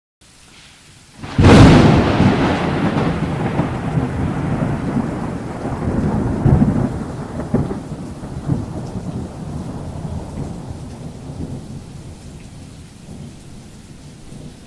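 A thunderclap with rain: a sudden sharp crack about a second and a half in, then a long rolling rumble that swells again a few times and slowly fades, over a steady hiss of rain.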